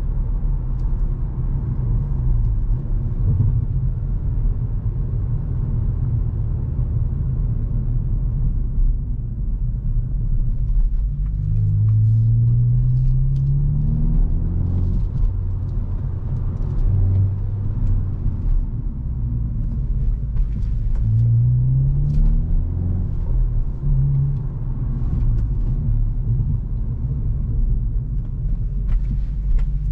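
Hyundai i20 N's turbocharged 1.6-litre four-cylinder engine and exhaust under way, with a steady low rumble. The engine note rises several times as the car accelerates and falls back in between.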